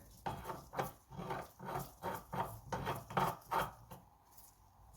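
Small metal puller being threaded by hand into the points cam of a two-stroke moped engine: short rasping metal-on-metal strokes, about three a second, that stop about four seconds in.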